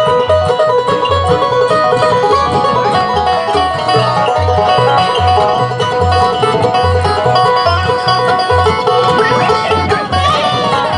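Live bluegrass band playing an instrumental break: banjo, mandolin and acoustic guitar picking quick notes over an upright bass thumping a steady beat.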